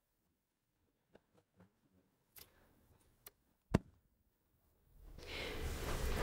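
Quiet room with a few faint soft clicks, then a dull thump about three and a half seconds in as a person drops back into a leather sofa. A rushing swell rises near the end.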